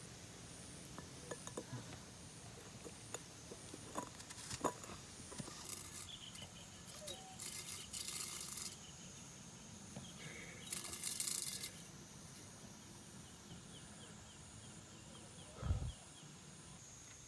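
A faint, high insect call pulsing at an even pace in the background, with two brief bouts of rustling, a few sharp clicks and a single low thump near the end.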